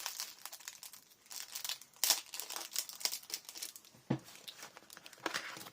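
Paper or plastic craft packaging rustling and crinkling as it is handled, with a few sharp clicks and taps, the loudest about two seconds in and again near the end.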